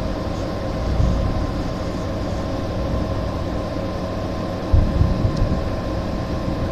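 Storm wind rumbling on the microphone, with a stronger gust about five seconds in, over a faint steady hum.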